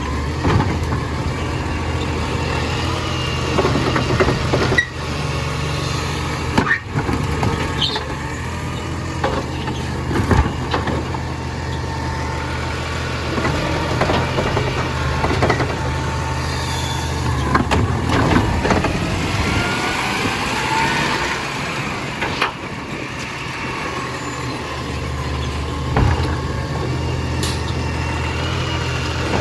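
Garbage collection truck's engine idling steadily, with scattered clanks and knocks and a rising whine about twenty seconds in.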